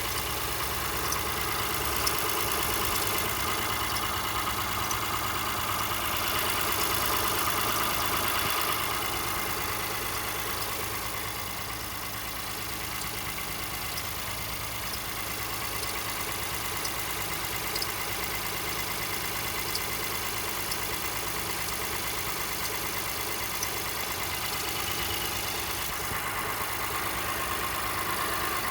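2018 Honda Ridgeline's 3.5-litre V6 idling after a cold start, with short high-pitched squeaks or chirps from the passenger side of the engine that come at irregular intervals and do not follow engine speed. The chirp shows up only while the engine is cold; its cause is not known.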